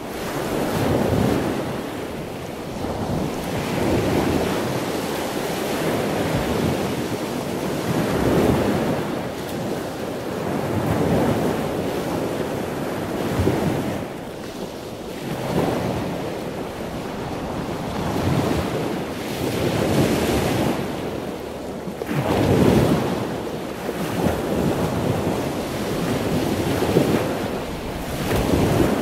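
Ocean waves washing in, a rush of water noise that swells and falls back every two seconds or so.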